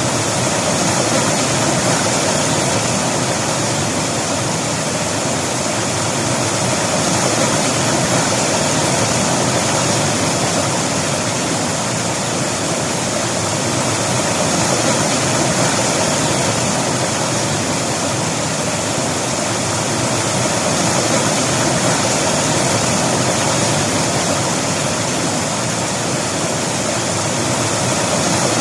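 Flowing river water, a loud, steady rush that swells gently every several seconds.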